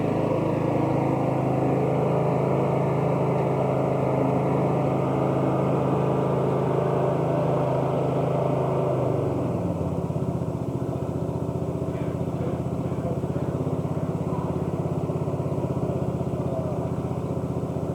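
Riding lawn mower's engine running steadily. About halfway through its pitch drops as the engine slows, and it settles into a slower, pulsing run.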